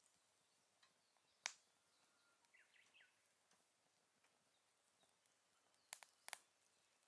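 Firewood burning quietly in a small solo fire grill, giving one sharp pop about a second and a half in and two more in quick succession near the end. Faint bird chirps can be heard in between.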